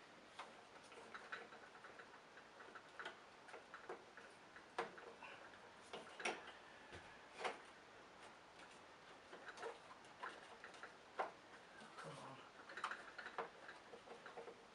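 Faint, scattered clicks and knocks of plastic parts being handled and fitted together while a Hoover Turbopower upright vacuum cleaner is reassembled around its motor.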